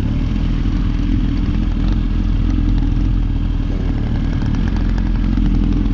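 Motorcycle engine running steadily at low revs, with no rise or fall in pitch.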